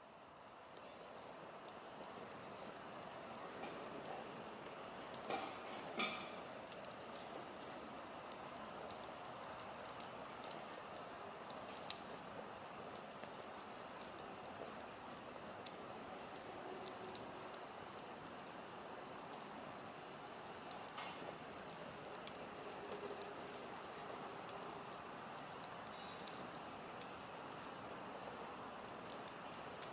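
Wood fire burning in a fire pit stand, crackling: a steady hiss with frequent sharp snaps and pops, two louder pops about five and six seconds in.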